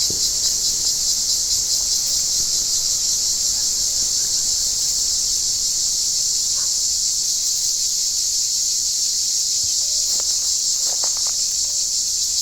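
Cicadas singing in a dense, steady chorus, a continuous high buzz that holds at an even level throughout.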